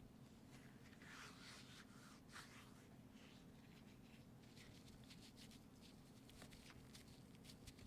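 Faint, irregular scratching and rubbing with small clicks, over a steady low hum.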